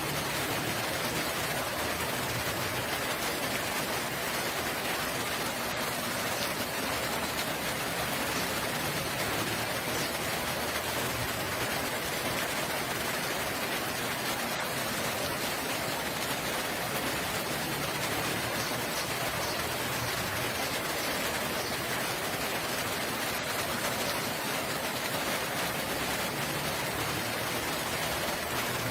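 Steady rain falling, an even unbroken hiss that holds at one level throughout.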